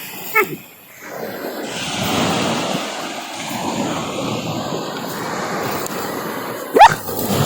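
Sea surf washing on the shore in a steady rush, with a corgi puppy's short falling yip about half a second in and a louder, sharp rising yelp near the end.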